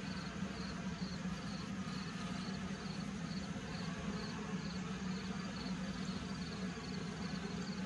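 Honeybees humming steadily from an open hive, with faint high-pitched chirping pulses repeating about three times a second.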